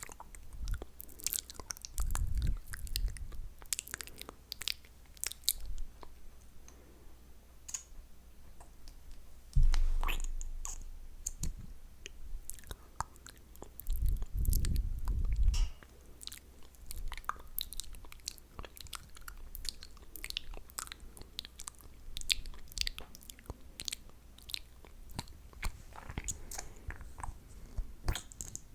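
Close-miked ASMR mouth sounds: dense, irregular wet clicks and sticky smacks of lips and tongue, with a few low thumps along the way.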